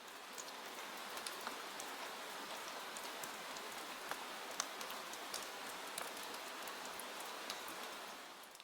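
Soft rain falling: a steady hiss of rainfall with many small drop patters scattered through it, fading out near the end.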